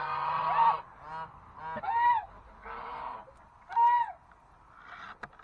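Domestic geese honking: about five separate short calls spread over a few seconds, one of them hoarser and noisier than the rest about three seconds in.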